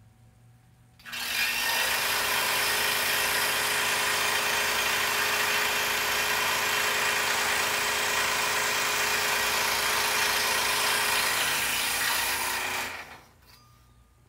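Scroll saw starting up about a second in, running steadily while cutting puzzle pieces from a poplar board, then winding down near the end.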